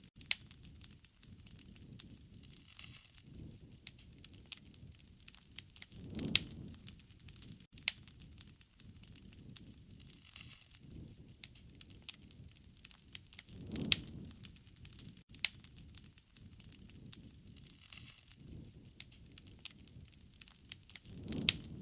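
Wood fire crackling, with irregular sharp pops and snaps and a soft low whoosh of flame that swells and fades about every seven to eight seconds.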